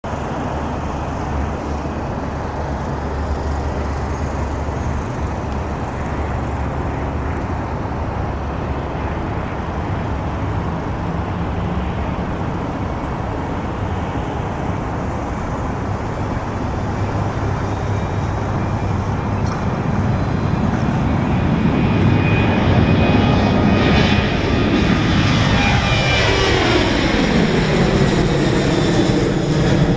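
Boeing 737-800's CFM56 turbofan engines at takeoff power: a steady rumble that grows louder, then, as the jet passes close by near the end, tones that slide down in pitch.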